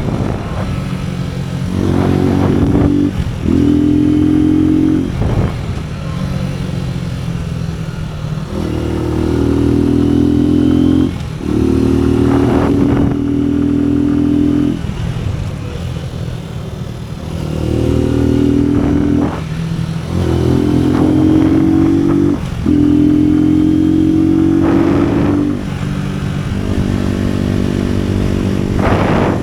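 Suzuki NKD 125 single-cylinder motorcycle engine under way, accelerating hard through the gears several times. Each time the pitch climbs, drops briefly at the shift and climbs again. It settles into steadier, lower running between the pulls.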